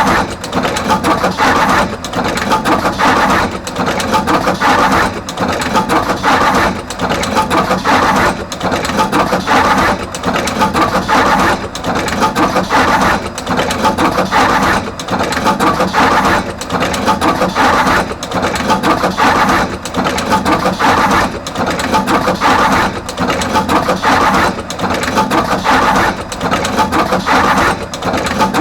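Artos CR22 automatic wire processing machine running continuously, crimping terminals onto both ends of each wire. Its loud mechanical clatter repeats in even cycles about every one and a half to two seconds, one cycle per finished wire.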